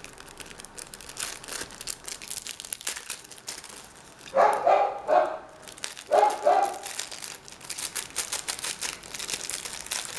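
A dog barking in two short bouts, about four and six seconds in, over light crinkling and small handling clicks.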